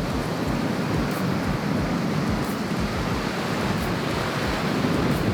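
Ocean surf washing on a rocky shore, a steady rush of water, with wind buffeting the microphone in low rumbles.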